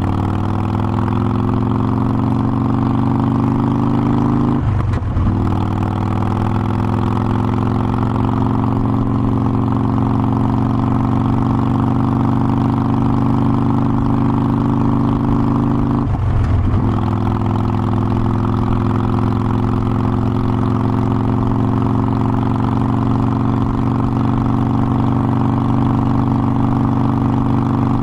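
Harley-Davidson Forty-Eight Sportster's air-cooled 1200 cc V-twin running under way. The engine note breaks off briefly twice, about five and sixteen seconds in, and each time climbs slowly again afterward.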